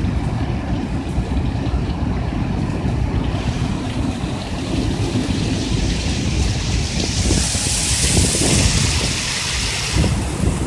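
Thunderstorm wind buffeting the microphone, a steady low rumble throughout. From about three seconds in, a hiss of wind-driven rain builds, is loudest around eight seconds, and falls away near the end.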